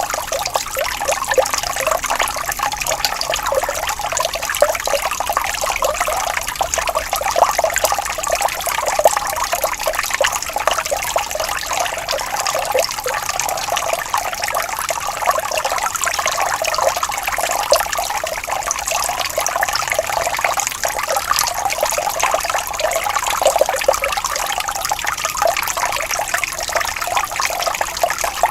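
Water flowing and trickling steadily in a small stream, a constant bubbling with many fine splashes.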